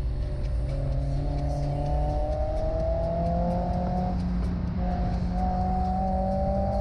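Honda S2000's four-cylinder engine pulling under acceleration, its pitch climbing, breaking off about four seconds in at a gear change, then climbing again.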